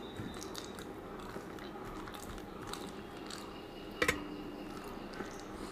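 Chewing and fingers mixing rice on a steel plate, with small scattered clicks. About four seconds in comes a sharp double metallic clink that rings briefly.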